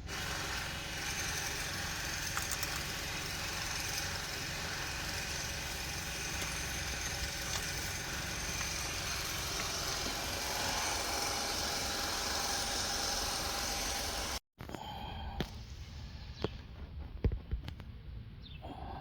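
A steady mechanical whirring noise with faint held tones, which stops abruptly about fourteen and a half seconds in. It gives way to a quieter stretch with a few light clicks and knocks.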